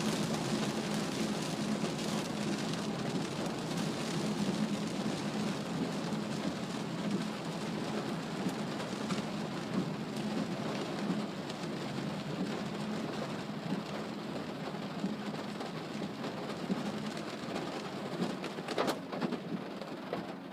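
Steady rush of heavy rain and wet-road tyre noise heard from inside the cabin of a moving Mazda CX-3, with a low drone underneath; the noise eases a little toward the end, with one short sharp tap near the end.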